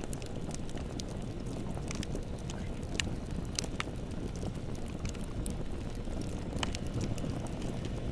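Bonfire burning with a steady low rumble of flame and scattered sharp crackles and pops of burning wood.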